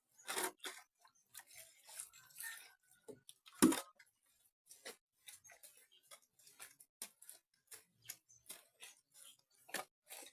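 Feet treading wet mud to mix it: a run of short, irregular squelches and slaps, two or three a second, with one much louder slap about three and a half seconds in.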